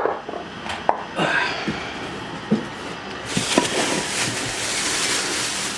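Loose engine parts being handled: a few light knocks and clinks, then a steady hiss from about three seconds in.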